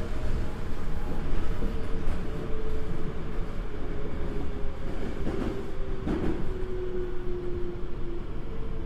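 Toei Asakusa Line 5300 series subway train running, steady rumble of wheels on rail with a motor whine that slowly falls in pitch as the train slows. Two brief knocks come a little past the middle.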